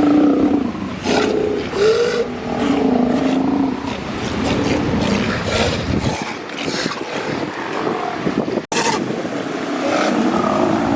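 Sea lions calling over one another: a string of low, drawn-out moaning calls, each a second or less, one rising in pitch about two seconds in.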